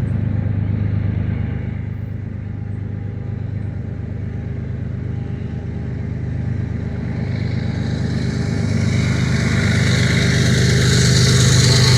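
CN freight train's diesel locomotive approaching: a steady low engine rumble that grows louder through the second half. A rising rushing noise builds with it as the train draws near.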